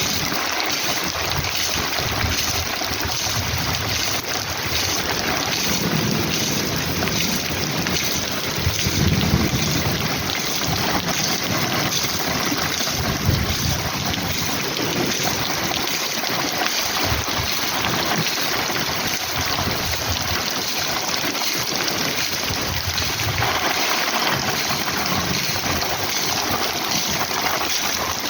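Heavy rain falling steadily, a dense unbroken hiss, with low rumbling swells about six and nine seconds in.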